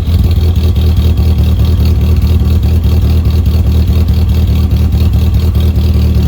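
Mk4 Volkswagen Jetta wagon's engine idling steadily through its original exhaust, with the muffler and resonator still fitted.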